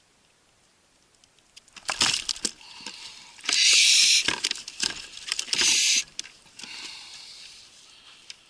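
A burst of irregular sharp knocks and clatter mixed with rushing, hissy noise, loudest in two bursts a little before and after the middle, then dying away.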